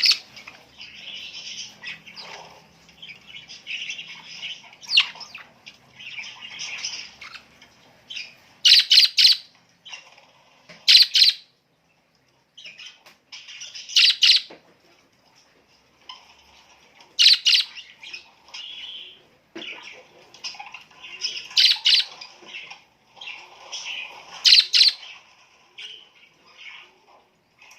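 Birds chirping continuously, with a loud short call breaking in every few seconds, six times in all.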